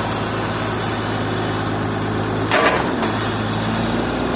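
An engine running steadily, with a short loud burst of noise about two and a half seconds in.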